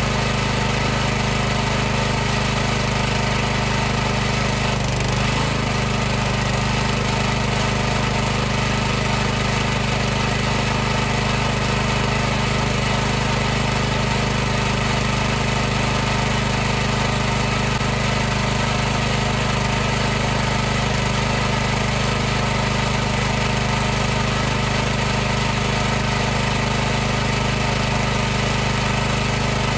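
High-pressure washer running steadily: a constant motor-and-pump hum with an even hiss over it.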